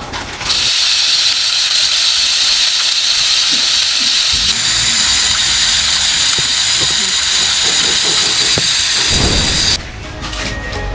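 A loud, steady hiss that starts about half a second in and cuts off suddenly shortly before the end.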